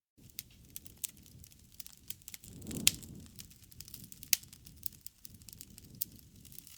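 Wood campfire crackling, with irregular sharp pops over a low rumble of flame. Near the middle the fire briefly swells louder, with one strong pop.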